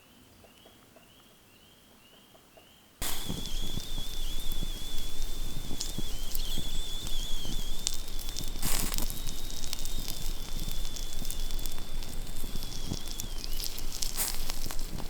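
A wood campfire crackling and popping, starting abruptly about three seconds in, with a steady high tone running over it. Before that, only faint repeated high chirps.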